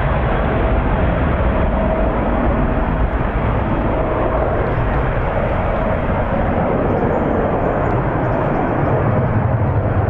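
Jet airliner engines running loudly: a steady rushing noise with a faint steady whine in it.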